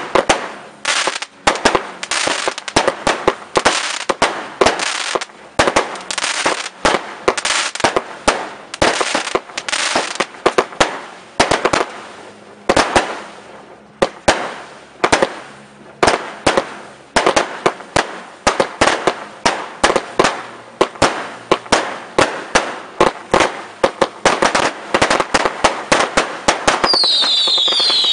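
Fireworks display: a rapid, irregular barrage of loud bangs and shell bursts, often several a second. Near the end, several whistling fireworks start up, their pitches falling.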